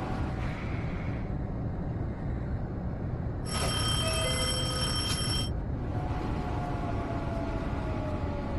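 Seoul Metro Line 2 train rumbling along inside the car. About halfway through, a steady electronic warning tone sounds for about two seconds. Near the end, the motor whine falls slowly in pitch as the train slows.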